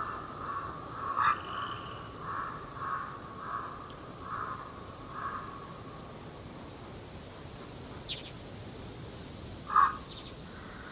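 Repeated short animal calls, about two a second for the first five seconds, then quiet apart from a brief high chirp and a single louder call near the end, over steady outdoor background noise.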